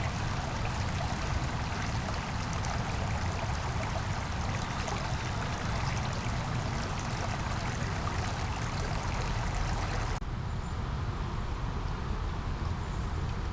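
Small brook babbling and trickling steadily over a constant low rumble. About ten seconds in the bright splashing cuts off abruptly, leaving a duller, lower rush of water.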